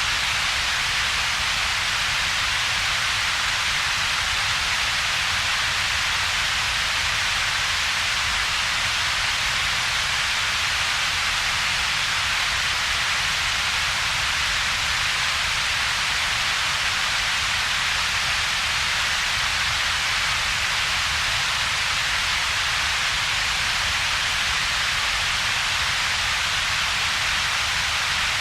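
Steady synthetic double-peaked noise: a bright hiss in the upper middle of the range together with a separate deep rumble, with a hollow between the two. It is unchanging and has no pitch or rhythm.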